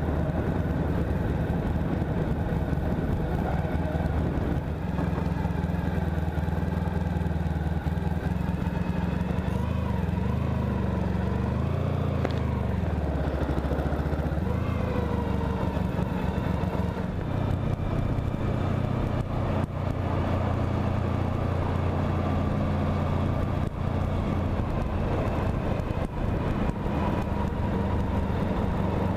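Honda Pan European motorcycle engine running as the bike is ridden. The engine note holds steady, dips and climbs again between about ten and fourteen seconds in, then steadies.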